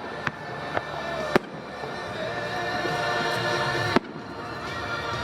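Fireworks bursting in several sharp bangs, the loudest near the start and about four seconds in, over music playing throughout.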